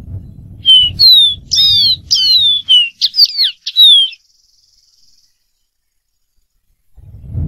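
Dark-throated seedeater singing: a phrase of clear, quick whistled notes, most sliding downward, lasting about three seconds before the bird falls silent. A low rumble runs under the start of the song and returns near the end.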